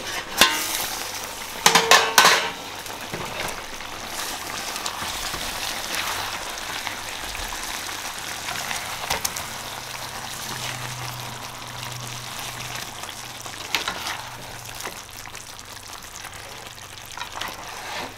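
Chicken sizzling in a pot on a gas burner: a steady frying hiss with scattered small pops. A few sharp metal clanks come in the first couple of seconds.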